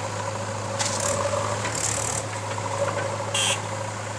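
Heavy diesel machinery engine running steadily, with three short hisses about one, two and three and a half seconds in.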